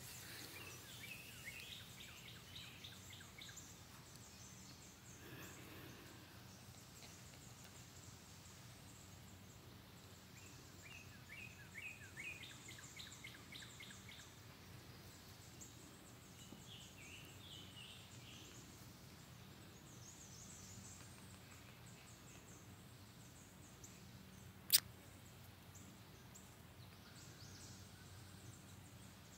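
Quiet outdoor ambience with a faint steady low hum, broken three times by a bird singing a quick run of chirps. A single sharp click comes late on.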